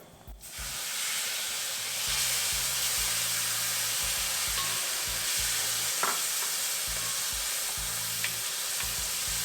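Tomatoes going into hot ghee in a kadai, sizzling loudly as they are sautéed and stirred. A short knock of the spoon against the pan about six seconds in.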